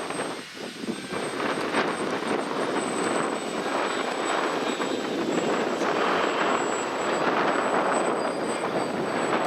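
Radio-controlled model airplane in flight with its motor running, a thin high whine that wavers slightly in pitch, over heavy gusting wind noise on the microphone.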